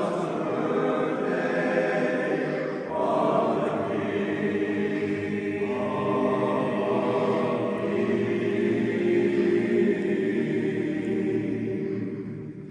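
A barbershop chorus singing a cappella in close harmony, holding long sustained chords; the sound fades away near the end.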